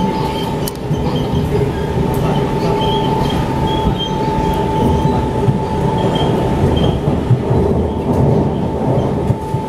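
Siemens C651 metro train running along the track at speed, heard from inside the car: a steady rumble with a steady high whine over it and a few faint clicks from the wheels.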